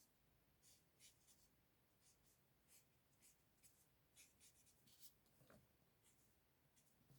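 Faint, irregular strokes of a brush-tip colouring marker on card stock, light scratchy flicks a fraction of a second each. A short falling squeak comes about five and a half seconds in.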